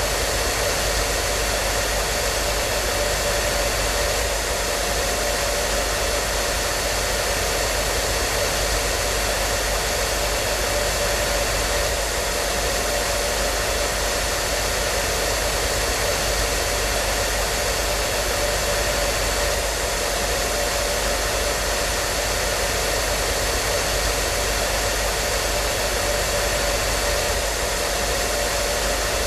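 Hair dryer running steadily: a constant rush of blown air with a faint motor hum and a thin steady whine riding on top.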